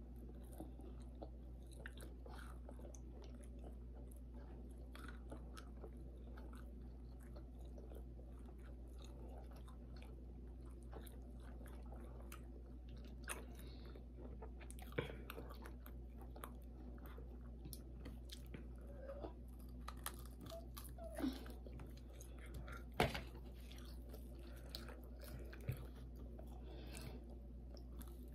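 Chewing and biting on crispy fried pork chop, with small crunches and mouth clicks over a steady low hum. A few sharper clicks stand out, the loudest about two-thirds of the way in.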